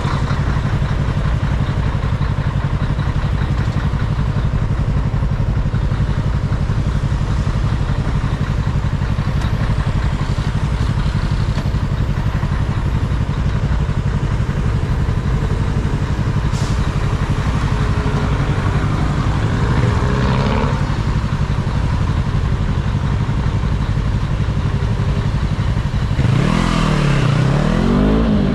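Yamaha R3 motorcycle's parallel-twin engine running steadily under way, its note rising and falling briefly about two-thirds of the way in and again near the end.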